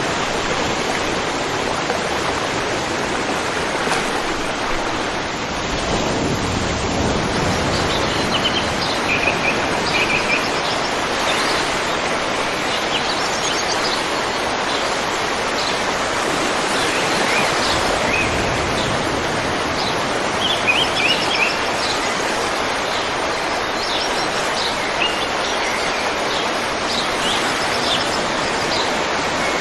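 A river's steady rushing flow, with small birds chirping over it from the first third on.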